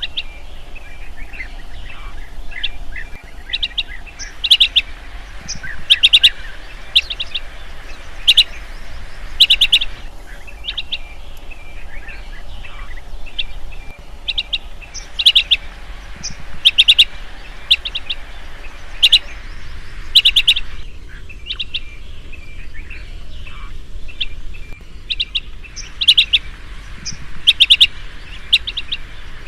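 Chestnut-headed bee-eater (kirik-kirik senja) calling: short high chirps in quick clusters repeated every second or two, with softer, lower chirps between them during the first half.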